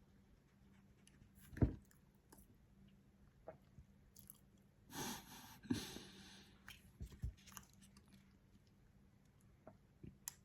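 Chewing a soft chocolate muffin, with scattered small wet mouth clicks. A louder thump comes about a second and a half in, and a breath just past the middle.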